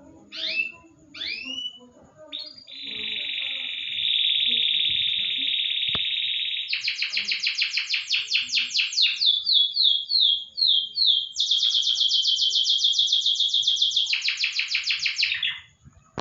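A songbird singing a varied phrase. It starts with two quick whistled slurs, then holds a steady trill for about four seconds, then runs into rapid repeated notes at about seven a second, a few falling slurred notes, and another fast trill that stops near the end.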